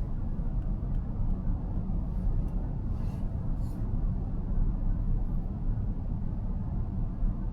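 Steady low road and tyre rumble of a car driving along, heard inside the cabin, with a few brief soft hisses about halfway through.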